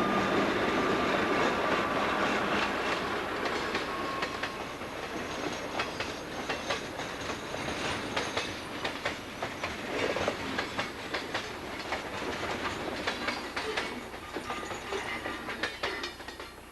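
Freight train passing behind an Alco S4 diesel switcher. A steady low note and a thin, slightly falling whine fade over the first few seconds. Then the cars click over the rail joints in a long run of sharp clacks, growing quieter toward the end.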